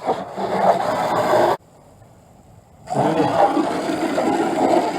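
Hose spray nozzle blasting water against a car's underside and wheels, a loud steady hiss. It breaks off suddenly about a second and a half in and starts again about a second later.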